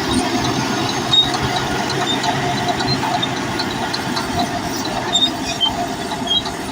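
Bulldozer at work: its diesel engine running steadily while the steel crawler tracks squeak and clank, with scattered short high squeals and a few sharper knocks.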